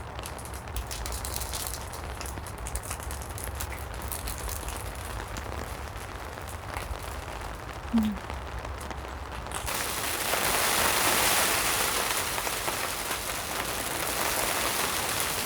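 Rain and sleet pattering, with a low wind rumble and scattered light ticks at first, and a brief low thud about eight seconds in. A little over halfway through it gives way suddenly to a louder, steady hiss of rain.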